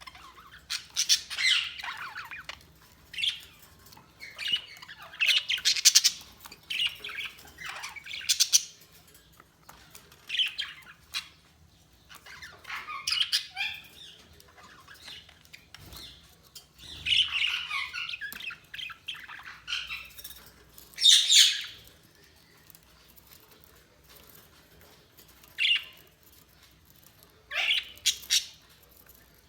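Budgerigars chattering and squawking in irregular bursts of warbling chirps, with several louder harsh calls and short quiet gaps between bursts.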